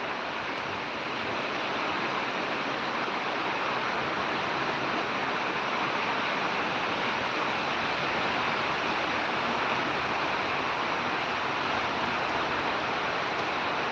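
Heavy rain pouring down in a steady, dense hiss that grows a little louder about a second and a half in.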